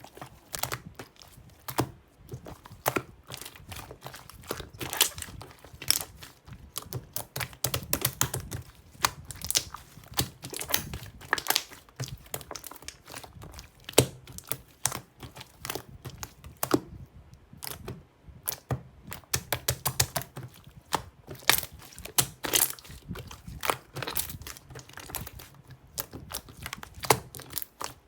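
Close handling noises: irregular crinkling and crackling with many small clicks and taps, like hands working with paper or plastic packaging.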